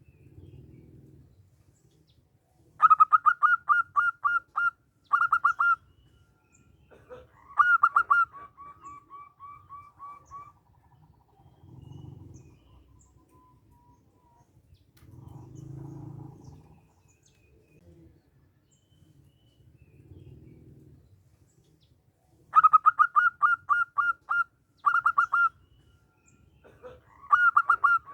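Zebra dove (perkutut) singing: two phrases about twenty seconds apart, each a quick run of staccato cooing notes followed by a longer trill of fainter rapid notes. Soft low hums sound now and then between the phrases.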